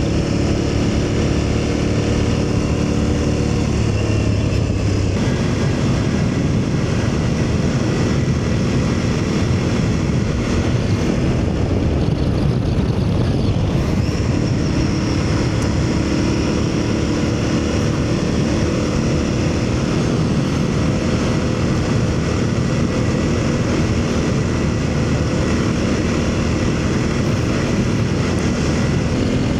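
Aprilia Tuareg 660's parallel-twin engine running at road speed, its note shifting a few seconds in and again about halfway, over a steady low rush of wind noise.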